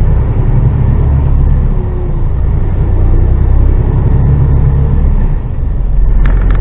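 Diesel engine of an HGV lorry pulling away under load, a steady low drone with a brief dip in loudness about five seconds in.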